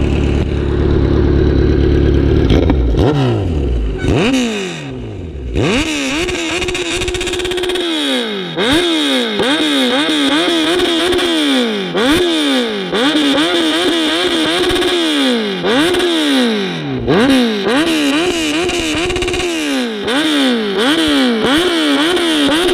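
Kawasaki Z900's inline-four engine with an Austin Racing aftermarket exhaust being revved in place, loud. A steady rumble falls away in pitch after a few seconds, then a long run of sharp throttle blips follows, about one a second, each rising and dropping back.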